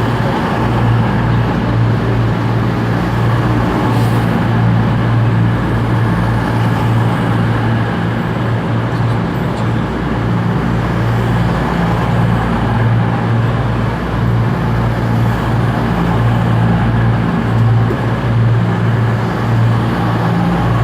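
Diesel train engine running steadily at a constant low pitch, a loud even hum with no change in speed.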